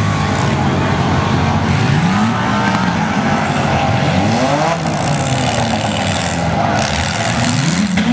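Several demolition-derby cars' six-cylinder engines running hard and revving, their pitch rising sharply several times as the drivers accelerate into each other.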